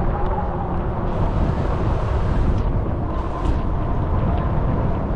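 E-bike riding along a trail: steady low rumble of wind on the microphone and tyre noise, with a faint steady whine over it.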